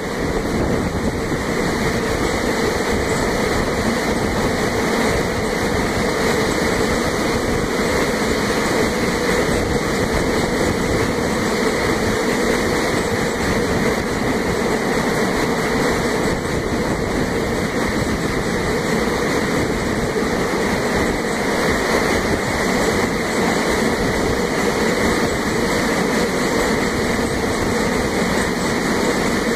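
A passenger train running steadily, heard from on board as a continuous loud rolling noise of wheels on rails, with no distinct rail-joint clicks.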